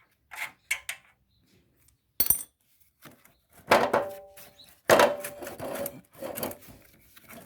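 Tools and metal mower parts being handled: a few light knocks, a sharp clank a couple of seconds in, then a run of louder clattering and rattling with short metallic ringing in the second half.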